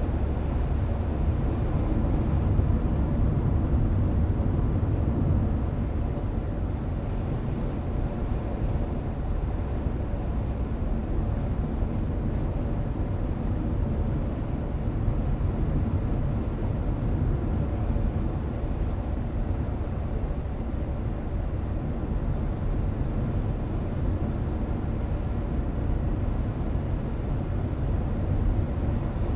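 Steady road noise of a moving car heard from inside the cabin: a low tyre-and-engine rumble that holds even throughout.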